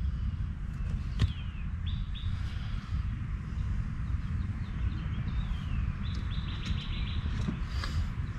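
Birds chirping nearby: short notes, several sliding down in pitch, with a quick run of chirps about six seconds in. Underneath is a steady low rumble, and there is one sharp click about a second in.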